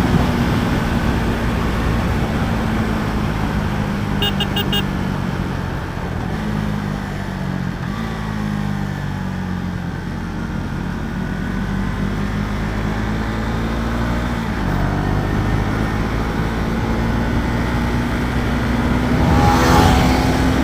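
KTM Duke 390 single-cylinder engine cruising at a fairly steady pitch under heavy wind noise on the rider's helmet microphone, the note easing and picking up again partway through. A brief high-pitched beep sounds about four seconds in.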